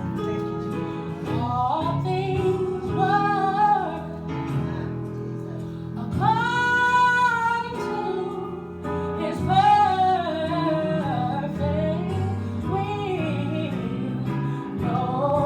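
A woman singing a gospel song over steady instrumental backing, with a long held note about six seconds in.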